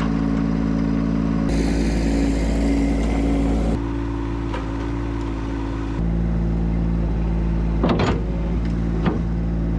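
1960s Ford dump truck's engine running steadily at idle. A hissing noise rides over it from about a second and a half in until nearly four seconds. The engine note shifts about six seconds in, and two short knocks come near the end.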